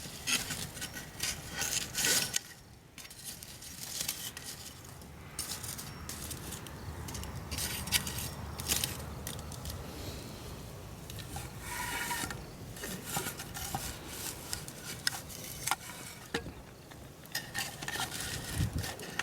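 Metal cookware and utensils clinking and scraping in irregular knocks and scrapes, with a brief sizzle-like hiss now and then.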